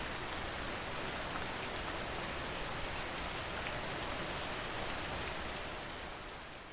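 Steady rain falling, with single raindrops ticking through the hiss; it fades out near the end.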